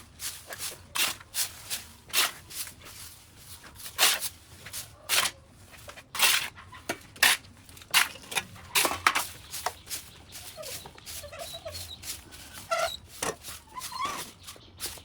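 Irregular sharp snaps and clicks, one or two a second, as vines and brush are cut and pulled away by hand during overgrowth clearing.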